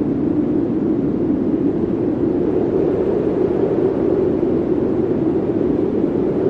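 Steady rushing of snowstorm wind, a continuous low roar with no gusts or breaks.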